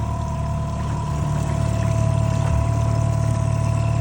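Motorboat engine running steadily, a low hum with a steady whine above it.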